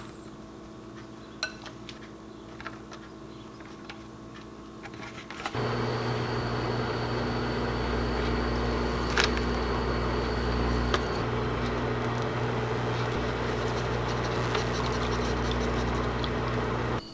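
A few light clicks, then an electrical appliance starts about five seconds in and runs with a steady hum and a faint high whine, cutting off suddenly near the end.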